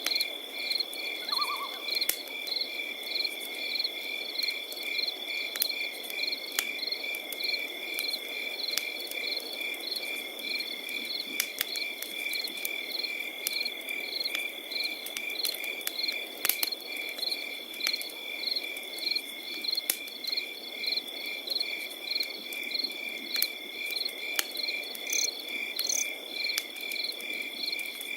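Crickets chirping over a campfire: a steady high trill and evenly pulsed chirps run throughout, while the fire gives scattered sharp crackles and pops and a soft low rush.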